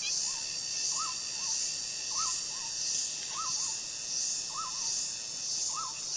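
A two-note animal call, a higher arched note followed by a lower one, repeating about every 1.2 seconds over a steady, pulsing high-pitched chorus of insects.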